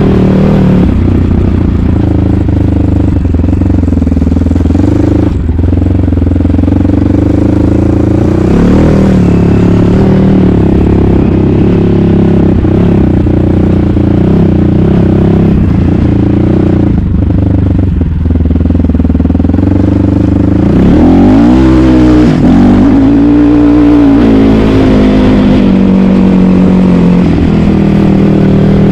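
Asix XT97 300cc enduro motorcycle engine running under load, its revs rising and falling as the throttle is worked. About two-thirds through the revs drop sharply and climb back up.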